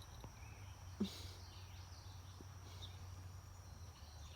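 Faint evening outdoor ambience: a few short bird chirps over a steady high insect tone and a low hum, with one brief knock about a second in.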